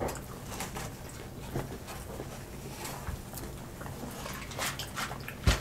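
Close-up eating sounds: people chewing fried chicken wings and fries, with scattered small clicks. A single sharper knock comes near the end.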